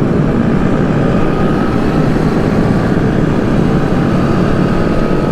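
Steady rumble of vehicles and wind noise while riding along with a group of motorbikes, with a faint, slowly rising whine.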